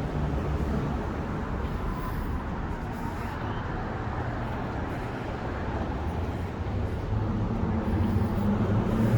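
Street traffic: a car's engine hum fades in the first seconds, then another vehicle approaches and grows louder near the end.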